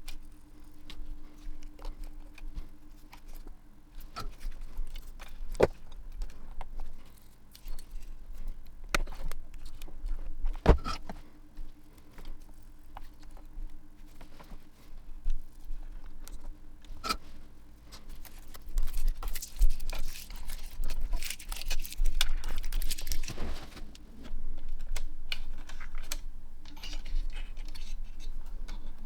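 Small clicks, knocks and light metallic rattling of tools and parts being handled on a workbench, over a faint steady hum. A few seconds of denser rustling and scraping come about two-thirds of the way through.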